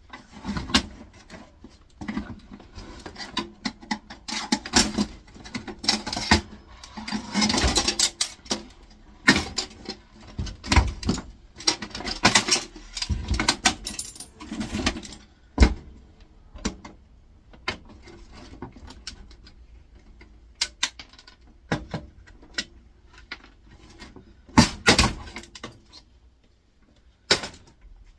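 Plastic and metal parts of an air fryer being wedged and pried apart with hand tools: irregular clicks, knocks, cracks and scraping, busiest in the first half and sparser later on.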